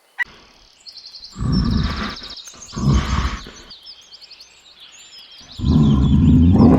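Three low, rough rumbling calls from a large animal, the last about a second long near the end, over small birds chirping in quick repeated trills.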